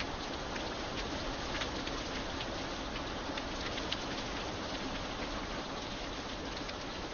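Steady rain falling: a constant dense hiss, with many separate drops ticking sharply on a hard surface.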